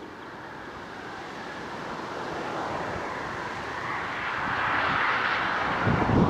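Jet engines of the Avro Vulcan bomber XH558, four Rolls-Royce Olympus turbojets, growing steadily louder as the aircraft approaches. Wind buffets the microphone near the end.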